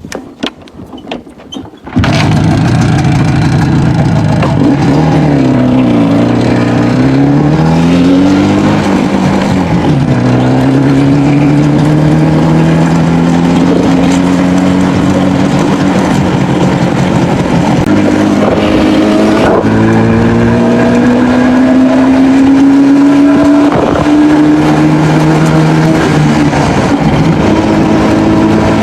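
Loud airplane engine noise that starts abruptly about two seconds in. Its pitch dips and rises a few times, then climbs slowly and steadily.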